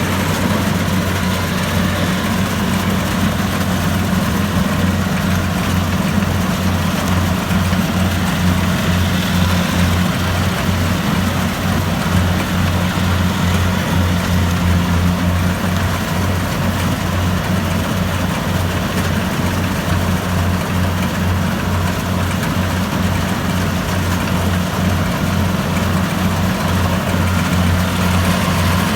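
Kubota DC-70 Plus combine harvester running steadily while harvesting rice: a low, evenly pulsing diesel engine drone with a broad rushing noise of the machinery over it.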